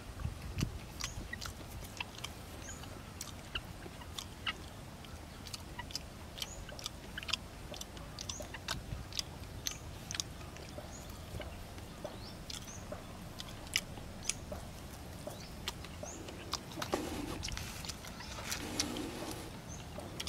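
A man chewing and biting cooked crab, the shell cracking: a scatter of sharp, irregular crunches and clicks, with a denser stretch of crunching near the end.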